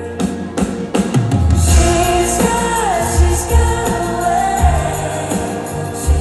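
Live pop song with a woman singing a held, gliding melody over a band. A few drum hits lead into heavy bass notes about a second in.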